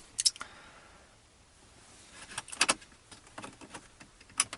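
Sharp metallic clicks and clinks of small metal parts being handled during work on a GAZelle heater fan motor, in a few separate clusters. Two come near the start, a group about two and a half seconds in, and a louder one near the end.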